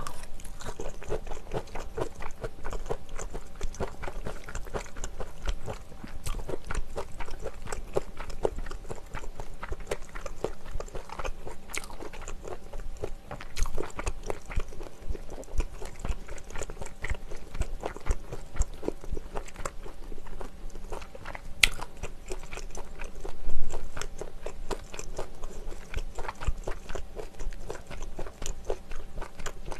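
Close-miked eating sounds: steady wet chewing with many small clicks and smacks as a person eats spicy stir-fried malaxiangguo and chewy Chinese glass noodles, with one louder mouth noise about two-thirds of the way through.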